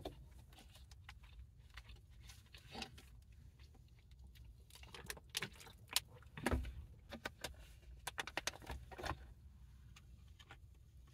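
Scattered light rustles and clicks of fast-food packaging being handled while eating, busiest about halfway through, over a low steady rumble.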